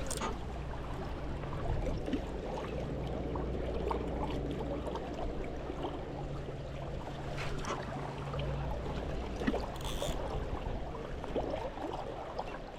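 Flowing river water rushing steadily, with a few light clicks over it.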